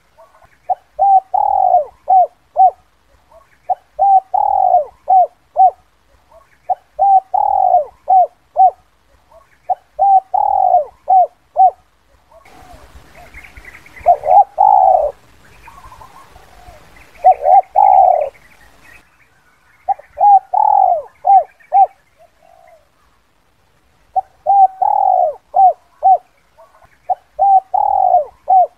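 Spotted dove cooing: phrase after phrase, each a longer coo followed by a few short coos, about every three seconds. In the middle stretch there is a faint hiss and fainter, higher bird chirps behind the coos.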